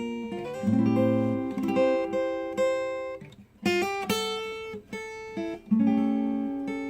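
Acoustic guitar playing through a chord progression, with strummed chords ringing and changing every second or so and a short gap about three and a half seconds in.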